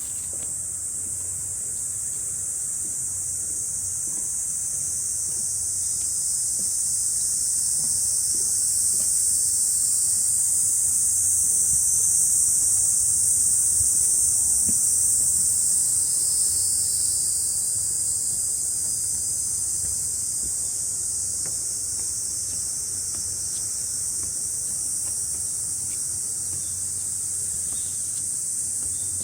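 Summer cicadas droning in a dense, steady, high-pitched chorus that swells louder about a third of the way in and eases back off after the middle.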